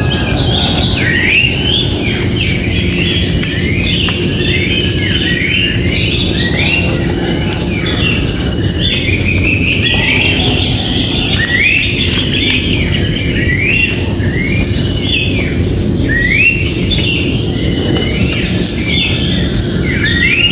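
A chorus of wild birds chirping, with many short rising calls overlapping several times a second. A steady high insect drone and a constant low rumble run underneath.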